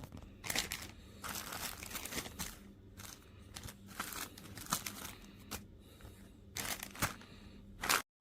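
Irregular crinkling and rustling handling noise in many short bursts, over a steady low hum; it cuts off abruptly near the end.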